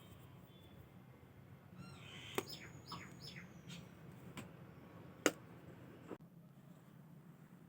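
A bird chirping a few quick falling notes about two seconds in, over a steady low hum. Two sharp clicks cut through it, a lighter one about two seconds in and a louder one about five seconds in.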